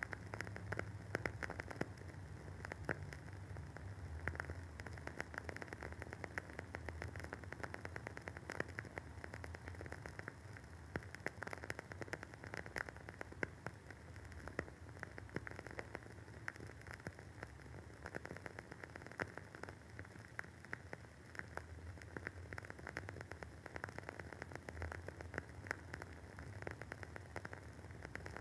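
WoodWick candle's wooden wick crackling as it burns: a steady, dense run of small pops and snaps over a soft hiss.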